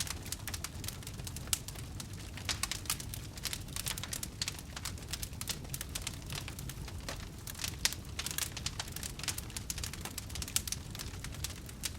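Campfire burning: wood crackling with frequent, irregular sharp pops and snaps over a low, steady rumble.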